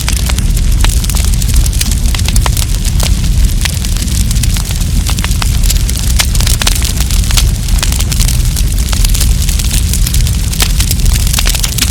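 Wood campfire burning with dense, irregular crackling and popping over a steady low rumble.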